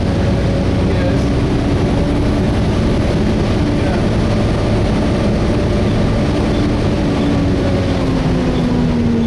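Volvo B7TL double-decker bus heard from inside while under way: a steady drone of the diesel engine and cooling fan over road rumble, its tone sagging slightly near the end. The fan runs without any screech.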